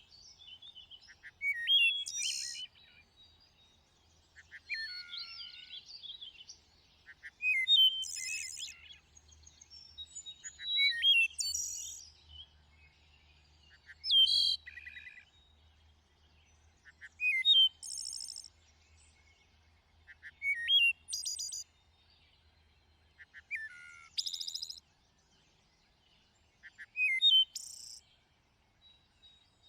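A songbird singing one short phrase every three seconds or so, about ten in all. Each phrase has a few clear, quick notes followed by a high, buzzy trill.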